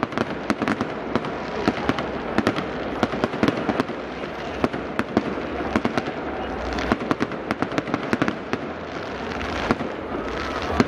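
Fireworks display heard from a distance: a dense, continuous run of sharp cracks and pops from bursting shells and crackling stars, with heavier bangs scattered throughout.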